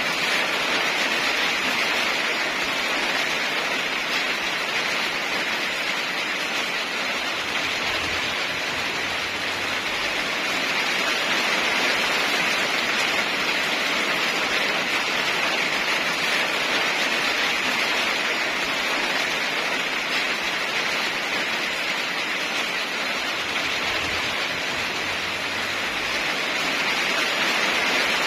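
Heavy rain falling steadily: a dense, even hiss with gentle slow swells in loudness.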